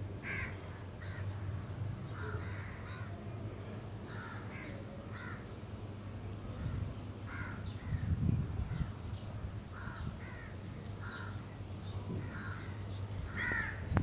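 Birds calling in the background: a string of short, rasping calls about once a second, over a low steady hum.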